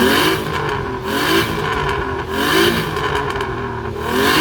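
Car engine revved repeatedly, its pitch rising and falling about every second and a half.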